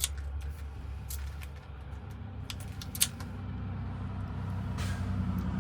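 Small metal clicks and taps of lock tumbler wafers and parts being handled while a Ford lock cylinder is rekeyed, a few scattered clicks with the sharpest about three seconds in, over a steady low hum.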